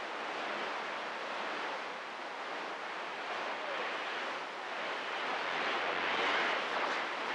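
Steady hiss of static from a CB radio receiver with no station coming through, and a faint low hum joins a little past five seconds in.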